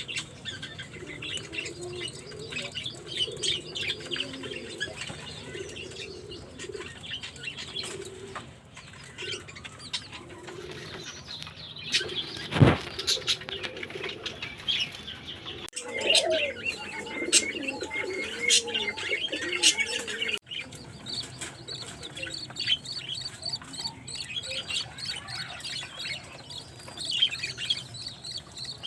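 Budgies chirping and chattering continuously, with a lower warbling underneath and a single sharp click about halfway through.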